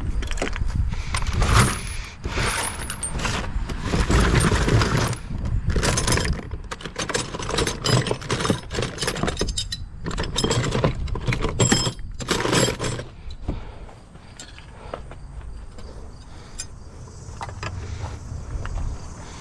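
Irregular metallic clanks, clinks and rattles, as of hand tools and metal car parts being handled. It is busy and loud for the first thirteen seconds or so, then quieter.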